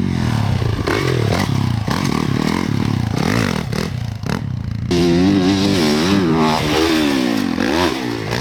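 Motocross bike engine revving hard as it is ridden at a jump, its pitch climbing and dropping repeatedly with the throttle and gear changes. It gets suddenly louder and closer about five seconds in, with the pitch swinging up and down.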